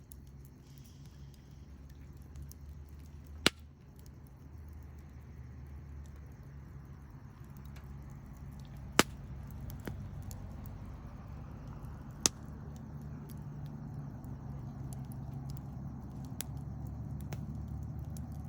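Wood campfire burning and crackling, with many small ticks and three sharp pops about three and a half, nine and twelve seconds in, over a low steady rumble.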